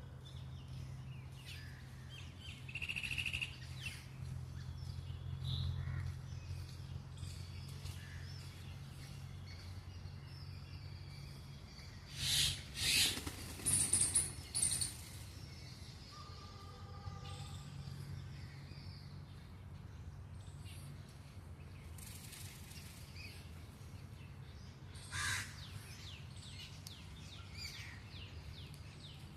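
Birds calling: a quick run of loud, harsh calls about halfway through and another near the end, with smaller birds chirping and a steady low hum underneath.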